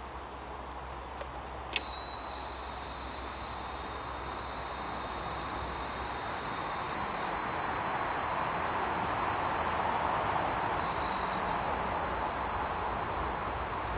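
A handheld radio-frequency detector switches on with a click and sounds a steady high-pitched electronic tone, louder and warbling for its first few seconds and again briefly later. Under it there is a steady rushing background noise that swells toward the middle.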